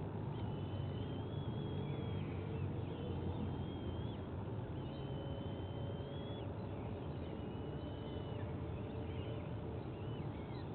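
Outdoor ambience of a steady low rumble of wind or distant traffic, with thin, high, drawn-out calls repeating about every second, each held at a level pitch for around a second.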